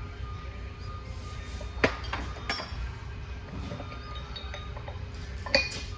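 Steel transmission parts clinking and knocking together as they are handled, with two sharper metal knocks, one about two seconds in and a louder one near the end, over a low steady shop hum.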